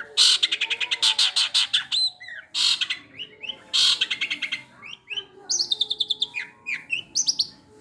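Long-tailed shrike (cendet) singing loudly: three bursts of very rapid chattering, then a string of short, sharp falling notes in the second half, part of a song full of mimicked calls.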